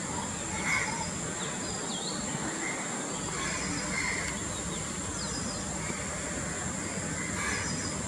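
Outdoor ambience of scattered short, high bird chirps with quick pitch glides over a steady high whine.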